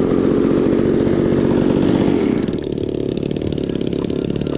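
Small model airplane engine running at high throttle, then throttled back to a lower, steadier idle about two seconds in.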